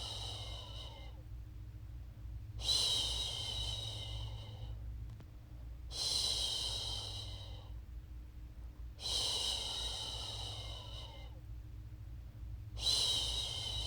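A woman's voice making long, repeated "shhh" shushing sounds to lull a baby to sleep. Each shush starts sharply and fades away over about two seconds, with a new one roughly every three seconds, four beginning in the span, over a steady low hum.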